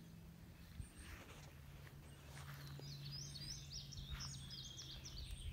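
A songbird singing a quick run of high chirping notes in the second half, over a steady low hum and outdoor background noise.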